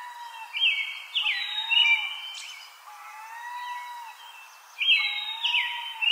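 Birds singing: one bird gives a quick phrase of high, falling notes twice, about four seconds apart, over softer, lower gliding whistles.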